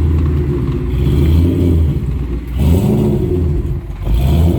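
2013 Shelby GT500's supercharged 5.8-litre V8 running as the car is driven slowly, with a brief blip of revs about two and a half seconds in.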